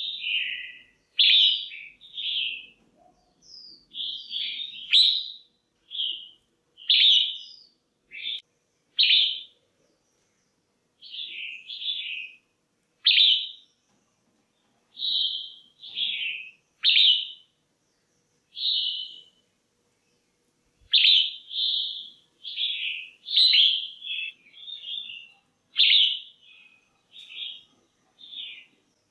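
Female red-whiskered bulbul giving short, clear chirping calls one after another, about one a second, with a pause of about two seconds midway.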